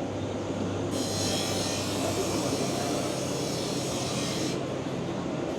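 Busy city street ambience: a steady din of crowd and traffic, with a hiss joining in about a second in and cutting off near the end.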